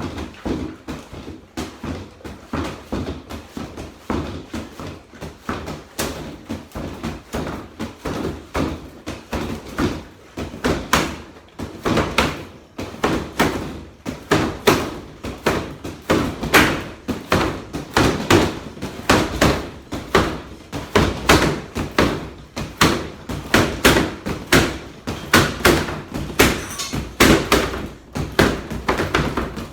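A steady rhythm of thuds, about two to three a second, getting louder from about halfway through.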